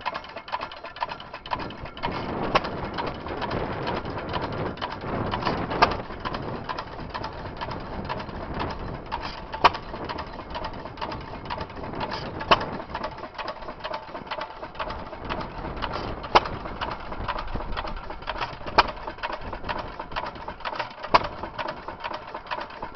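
1916 Stover Y hit-and-miss stationary engine running, firing with a sharp bang every two and a half to four seconds and coasting with a steady clatter in between. The clatter comes from an old engine with worn, loose parts.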